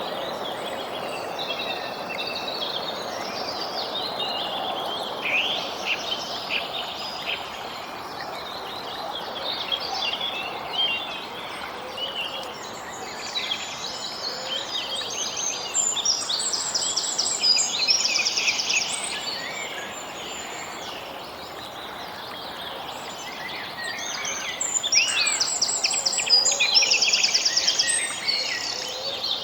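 Birds chirping and singing over a steady background hiss of outdoor noise, with two louder spells of rapid trilled song, about sixteen seconds in and again near the end.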